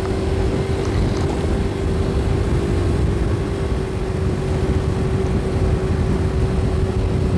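Motorcycle engine running at a steady speed, one even engine note over heavy low wind rumble on a helmet-mounted microphone.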